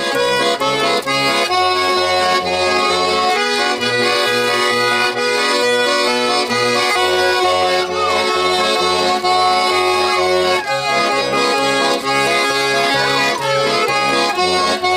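Garmon (Russian button accordion) playing an instrumental introduction: held chords over an evenly pulsing bass, with a few sliding notes now and then.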